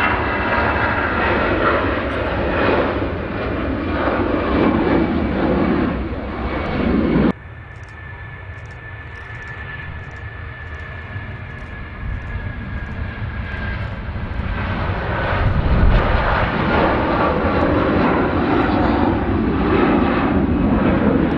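Jet airliner engines running close by: a heavy rumble with a high whine that falls slightly in pitch. The sound breaks off abruptly about seven seconds in, leaving a fainter whine, then the engine noise builds up again and is loudest near the end.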